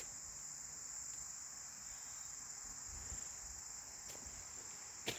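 Crickets trilling steadily outdoors, one continuous high-pitched insect drone with no breaks.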